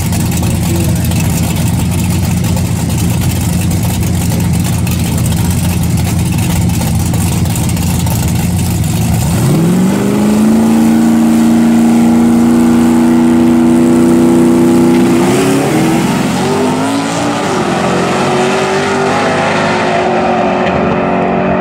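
Drag-racing engines of a nitrous truck and a Nova: a loud steady rumble while staged, then a sharp rise in pitch as they launch and hold at full throttle for several seconds. The note jumps up again briefly, then the pitch falls away as they lift off near the end.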